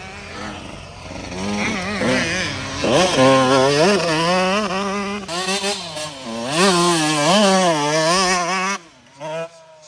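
Dirt bike engine revving up and down over and over as the throttle is opened and closed, loudest in the middle; the sound drops away suddenly near the end.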